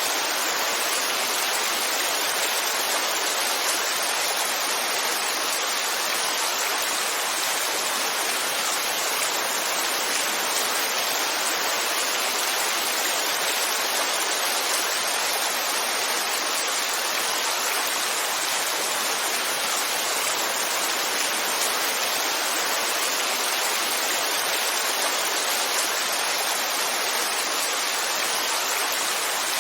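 Heavy rain falling in a steady, even hiss with no breaks or single drops standing out.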